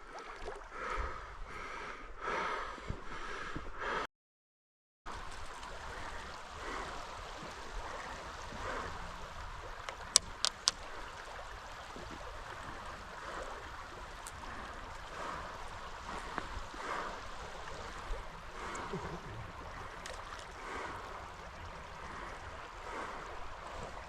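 Creek water running steadily. The sound cuts out entirely for about a second near the start, and three sharp clicks come about ten seconds in.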